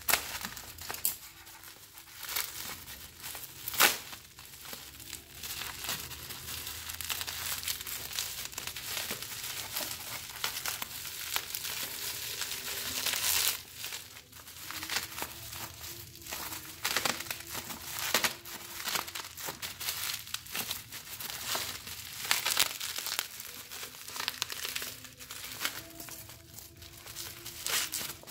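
Parcel packaging being cut with scissors and torn and crumpled open by hand: continuous crinkling and rustling, with irregular sharp snips and clicks, the loudest about four seconds in.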